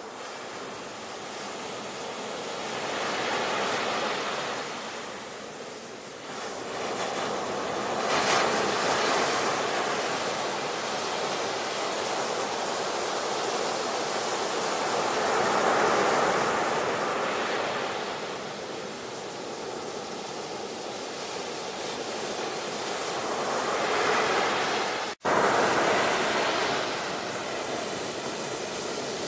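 Ocean surf: waves breaking and washing in, swelling and fading every several seconds. Near the end the sound cuts out for a split second and comes straight back.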